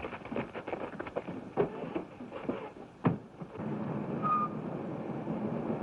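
Quick footsteps and knocks, a sharp bang like a car door slamming about three seconds in, then a car engine running steadily.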